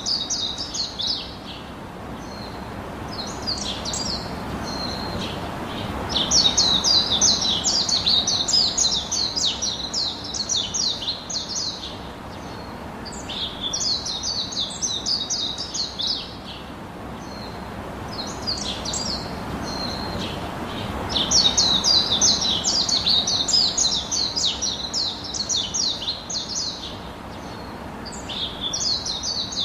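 Birds chirping in fast runs of short notes, in bouts several seconds long with short pauses between, over a steady low background hiss.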